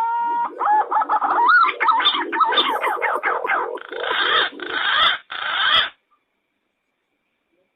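Green pigeon (punai) call from a bird-lure recording. A rising whistle leads into rapid warbling whistled notes, then harsh rasping notes, and the call stops about six seconds in.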